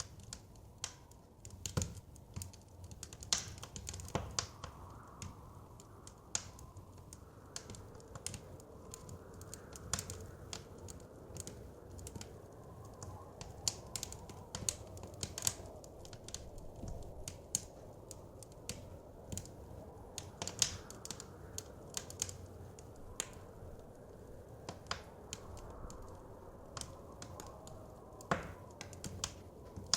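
Wood fire crackling, with frequent irregular sharp pops. Behind it, a soft blizzard wind blows, rising and falling in pitch.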